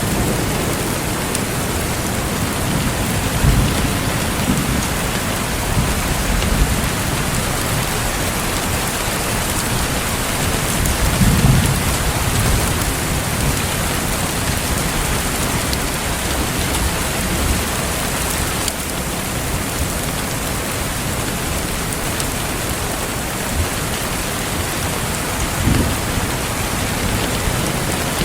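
Steady rain falling in an even hiss, with a few brief low rumbles under it, the strongest a little before halfway.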